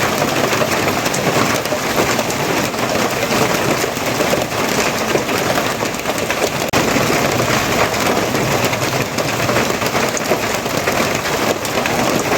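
Steady heavy rain, a dense even hiss of many close drops pattering on a surface.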